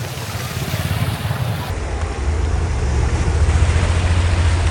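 Steady rushing noise of a motorbike ride through heavy rain, with a low rumble of wind buffeting the microphone that grows stronger about two seconds in.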